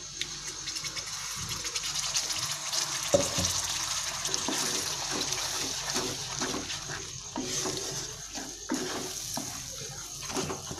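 Wet ground spinach and tomato paste sizzling as it is poured into hot oil and butter in a non-stick frying pan, then stirred with a wooden spatula. The sizzle fades over the second half while the spatula's scraping strokes come through.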